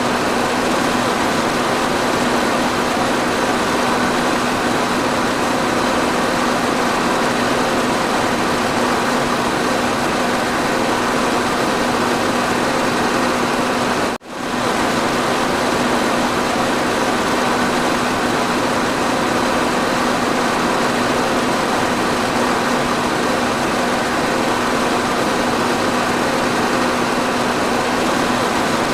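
Electric fan running steadily: an even rush of air with a steady low motor hum, cutting out for an instant about halfway through.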